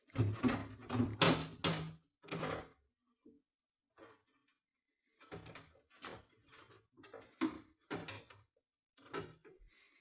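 A run of knocks, clunks and scrapes of hard objects being handled. They come in two clusters: one over the first three seconds, then another from about five seconds in.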